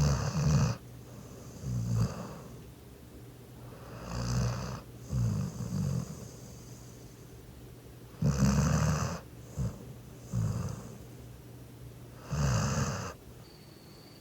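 Nine-month-old yellow Labrador Retriever snoring in its sleep: about four breaths, one every four seconds or so, each a snore followed by a shorter second sound.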